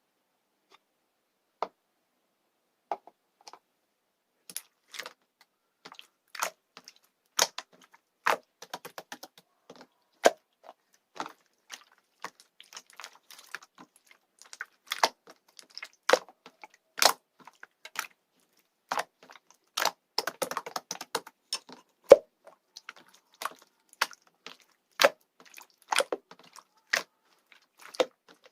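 Runny pink slime being handled, making irregular sticky clicks and small pops. They are sparse at first, grow busier a few seconds in, and crowd together about two-thirds of the way through.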